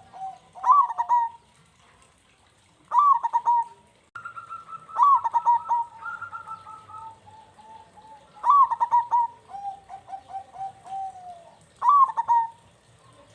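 Zebra doves (perkutut) cooing in about five repeated phrases, each a sharp rising note followed by a quick run of lower coos. Calls overlap around the middle.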